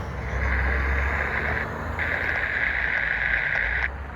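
Coal train rolling by with a low, steady rumble and a steady high squeal over it. The squeal breaks off briefly twice.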